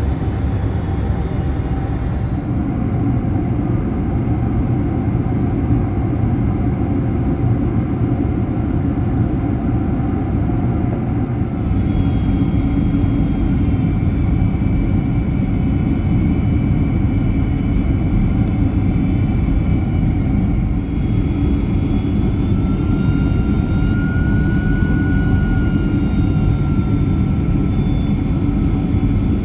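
Boeing 767-300 jet engine and airflow noise heard inside the cabin: a steady low rush that shifts in character a couple of times, with thin whining tones from about twelve seconds in and one tone gliding up and back down around twenty-four seconds.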